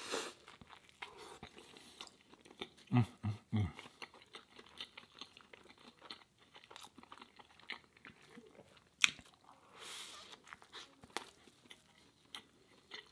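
Close-miked biting into and chewing a ciabatta breakfast sandwich: crunching with wet mouth clicks, a few low thumps about three seconds in and one sharp click later on.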